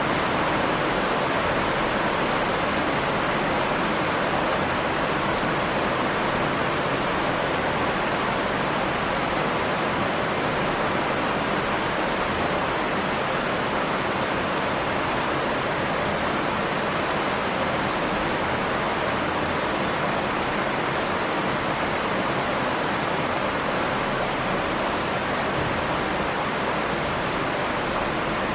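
Steady rainfall: a dense, even hiss of water with no breaks or thunder.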